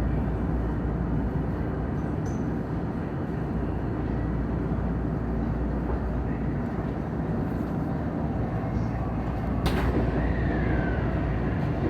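Running noise of a Tokyu Den-en-toshi Line commuter train heard from inside the car: a steady rumble of wheels on rail. About ten seconds in there is a sharp click, followed by a brief falling whine.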